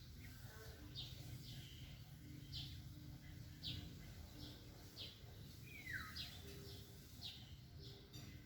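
Birds calling faintly: a string of short, high, down-slurred chirps, a little more than one a second, with one longer falling note about six seconds in, over a steady low rumble.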